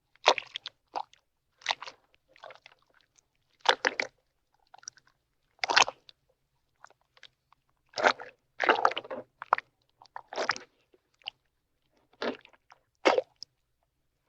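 A crunching, chewing sound effect: about a dozen short crunchy bites or chomps at irregular intervals, with clean silence between them.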